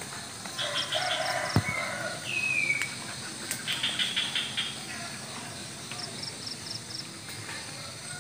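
Small birds chirping and trilling, with quick runs of repeated high notes and a short falling whistle, while a rooster crows once in the first two seconds. A single sharp click sounds about one and a half seconds in.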